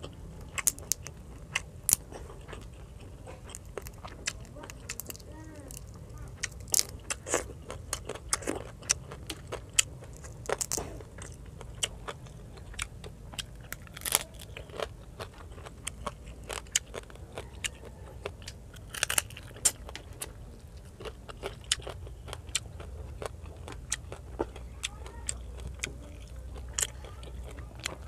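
Close-miked eating: a person chewing, with frequent irregular sharp crunches and wet mouth clicks, over a faint steady low hum.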